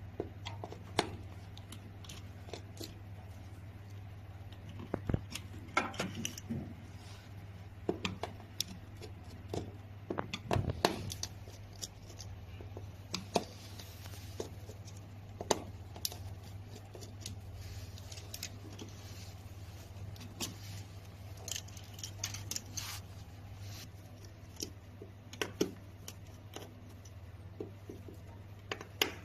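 Irregular clicks and clacks of hand tools and small metal parts being handled while electrical wiring is taken apart, over a steady low hum.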